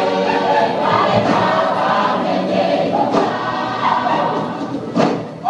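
A group of voices singing a Samoan song together as dance accompaniment, with a sharp accent about five seconds in.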